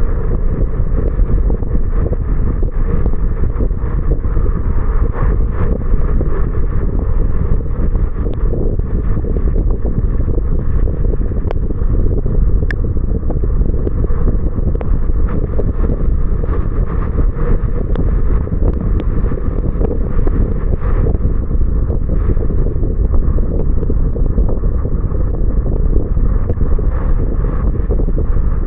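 Steady low rumble of a car driving in the rain: road and wind noise on an action camera's microphone, with faint scattered ticks.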